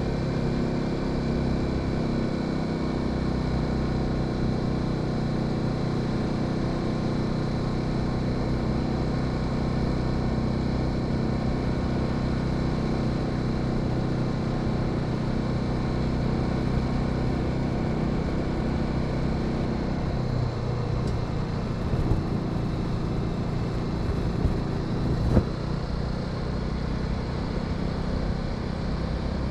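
Honda Sahara 300's single-cylinder engine running steadily while riding. Its note changes about two-thirds of the way through, with two short knocks after that.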